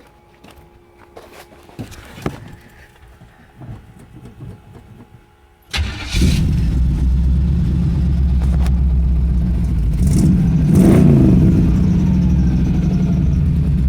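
Pontiac Strato Chief's engine starting on choke about six seconds in, then running loud and steady through a freshly fitted homemade exhaust, revs rising briefly a little past ten seconds.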